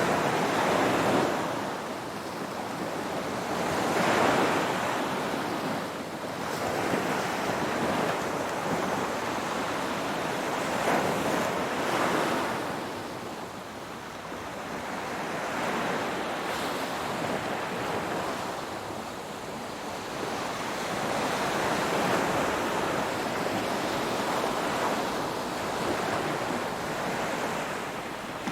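Ocean waves washing onto the shore, the surf swelling and falling back every few seconds in a steady hiss.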